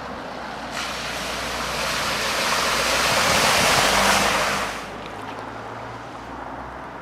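A vehicle driving through floodwater on a flooded road: a rushing wash of spray builds over about four seconds and drops away suddenly, over a steady low engine hum.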